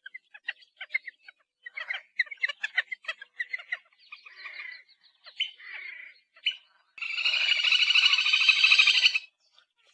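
Little grebe calling: short chirping notes, then a loud, rapid trill starting about seven seconds in and lasting about two seconds.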